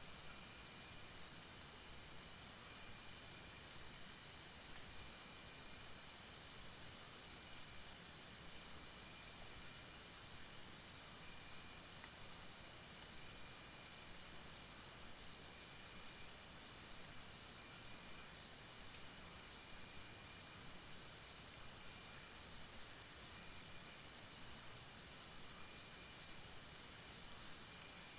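Chorus of night insects in a tropical forest, trilling steadily in fast high-pitched pulses, with a lower steady buzz beneath and a few brief, very high chirps now and then.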